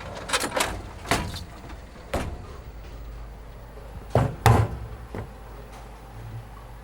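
A string of sharp, irregular knocks over a steady low hum, the loudest two close together about four seconds in.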